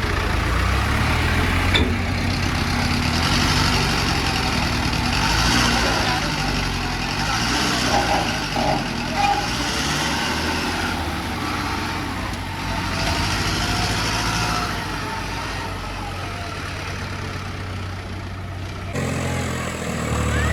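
Tractor's diesel engine running steadily with a low rumble, with a hiss that swells and fades over it.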